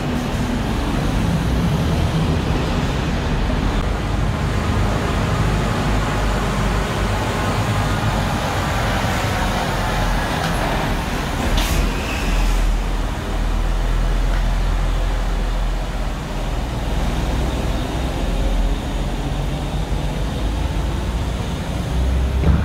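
Truck engine running under way, a steady low rumble, rising slightly in pitch for a couple of seconds before a single sharp knock about halfway through.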